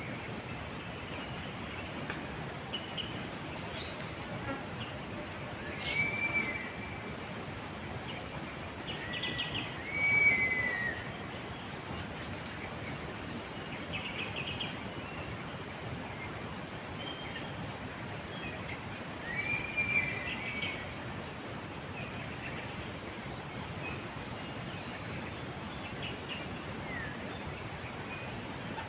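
Insects chirring in a steady, finely pulsing high drone, with short chirping bird calls a few times, the loudest about ten seconds in.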